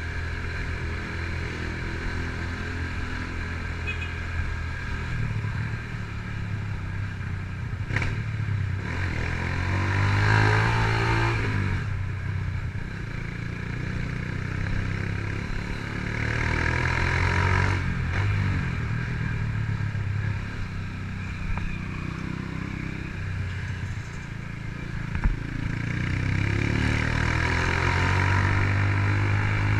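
Honda CG Titan 150's single-cylinder four-stroke engine with an aftermarket Fortuna exhaust, riding and pulling through the gears. It swells and rises in pitch three times as the bike accelerates, the last near the end. A sharp click sounds about 8 s in and a short knock near 25 s.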